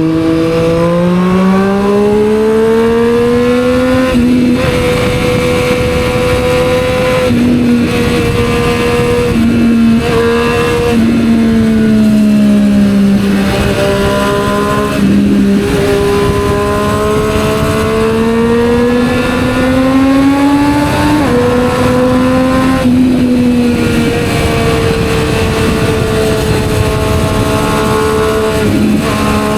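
Triumph Street Triple 765 R inline-three engine running through an aftermarket Yoshimura exhaust on the move. The pitch climbs steeply over the first few seconds, then holds fairly even with a few dips and climbs as the throttle changes, over a steady rush of wind and road noise.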